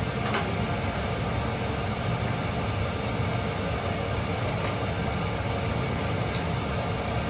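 Steady low hum and hiss of room background noise from a running appliance.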